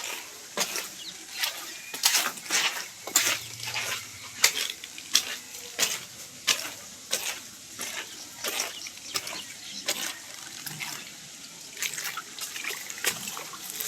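Water splashing in irregular strokes, a few a second, over a steady watery hiss.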